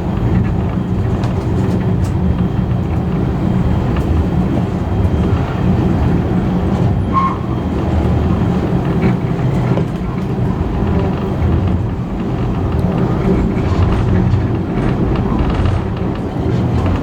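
Steady rumble of a heritage passenger carriage rolling along the rails in a train hauled by steam locomotive 5917, with a brief squeak about seven seconds in.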